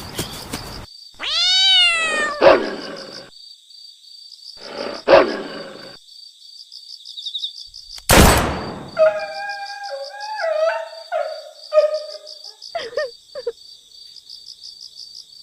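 Animal sound effects: a drawn-out call that rises and then falls about a second in, sharp snarls or barks, a loud burst about eight seconds in, then a run of short stepped calls, over a faint steady high whine.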